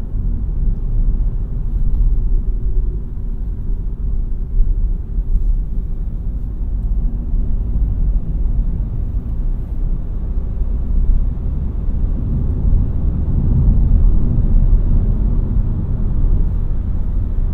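Renault Mégane TCe 100 driving, its 1.2-litre four-cylinder petrol engine and tyres making a steady low rumble that swells slightly about two-thirds of the way through.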